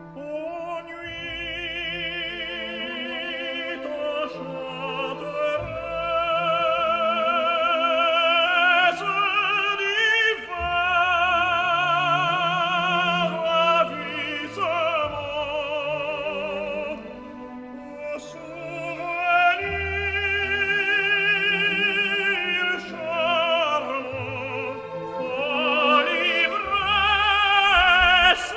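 Operatic solo voice singing an aria with wide vibrato, holding long notes over orchestral accompaniment.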